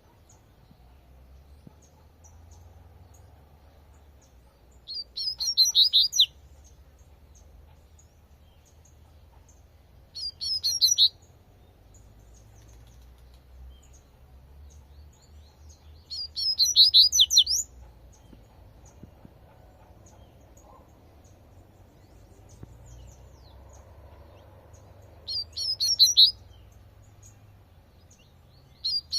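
Double-collared seedeater (coleirinho) singing its 'tui tui' song: four short bursts of rapid, high notes, each about a second long and several seconds apart, over a faint low background rumble.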